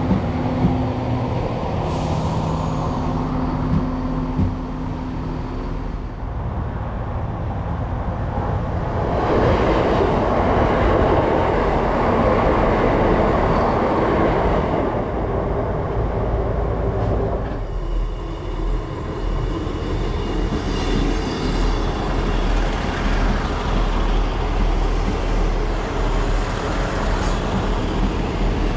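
Diesel multiple-unit passenger trains running through stations. For the first few seconds an engine hums with steady tones. From about nine seconds in, a loud rush of a unit passing close at speed lasts about eight seconds, and after a cut a steady rumble of wheels on the rails follows.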